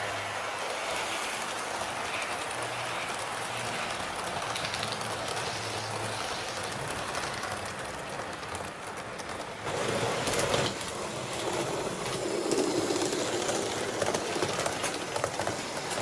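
A train running on rails: a steady rolling noise with a low hum, growing louder about ten seconds in.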